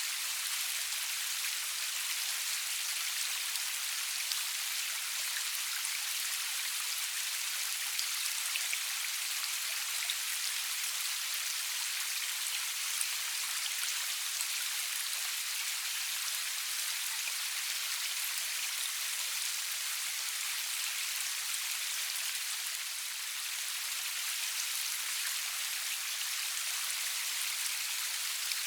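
Steady rain falling, an even hiss sprinkled with the fine ticks of individual drops hitting a surface.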